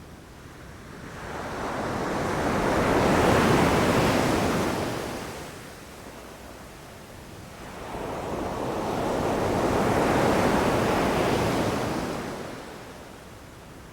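Ocean waves breaking on a shore: two waves swell and wash in, the first peaking about three seconds in and the second about ten seconds in, each fading away before the next, with a low rumble of surf between them.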